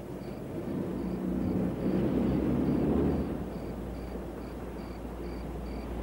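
Car engine running, growing louder about two seconds in and then easing off, over faint high chirps repeating about twice a second.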